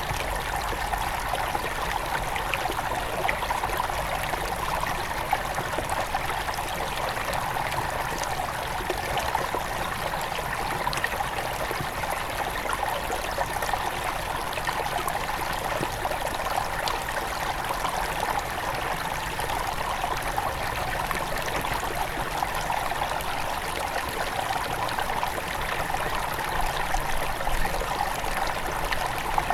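Small forest river at its headwaters flowing and trickling steadily, a continuous bubbling with many small splashes.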